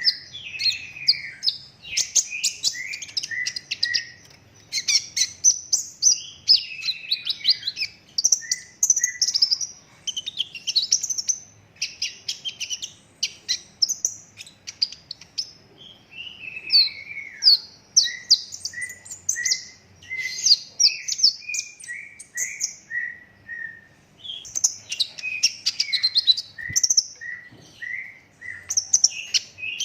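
Sunbird (kolibri ninja) singing continuously: fast, high twittering and trilled runs, with an evenly spaced string of lower, repeated chirps about two a second from the middle into the later part.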